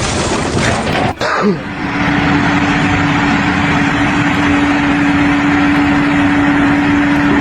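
A sudden change about a second in, then a steady machine or engine running: a constant hum over a loud rushing noise.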